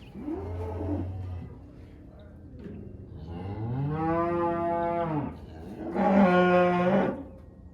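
Cattle mooing, three calls: a short low moo just after the start, a long moo that rises and then falls from about three seconds in, and the loudest moo near the end.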